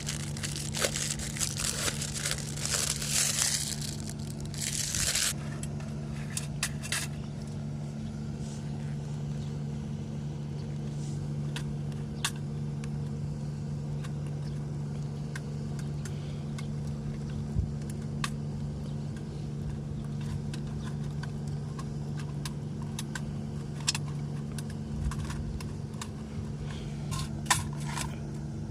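Crinkling and rustling of handled packaging or paper for the first five seconds, then scattered small clicks and taps, over a steady low engine-like hum.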